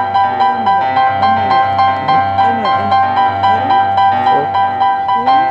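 Piano or keyboard music playing a quick, repeating figure of high notes, about four a second, over sustained lower notes.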